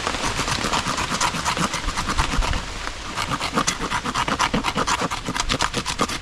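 A knife spine scraping wet bark off a stick in quick, pressured strokes, several a second.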